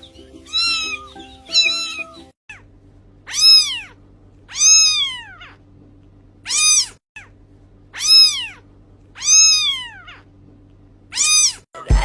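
A cat meowing again and again, each meow rising then falling in pitch, over a steady low background tone. Three meows come first, then after a brief break six more follow about one to two seconds apart. Music with a beat comes in right at the end.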